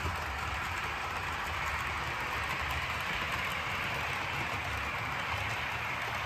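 OO gauge model diesel locomotive running along the layout track, a steady whirring hiss over a low rumble.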